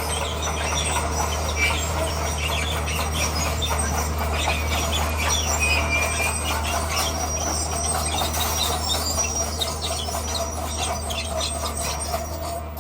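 Bulldozer working stone: its diesel engine runs with a steady low drone under a dense clatter and high squeaks, typical of steel crawler tracks and stone grinding under the blade.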